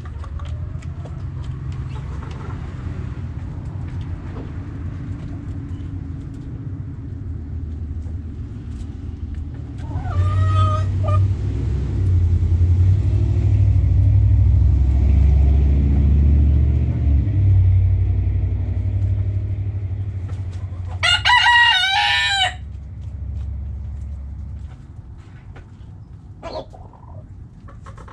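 Rooster crowing once, about three-quarters of the way through, a wavering call lasting about a second and a half. Shorter chicken calls come about a third of the way in and near the end. Under it runs a low rumble that swells through the middle and fades.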